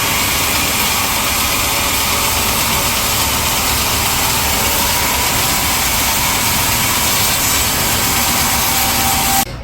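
Sawmill machinery running steadily with a loud, even mechanical noise that cuts off suddenly near the end.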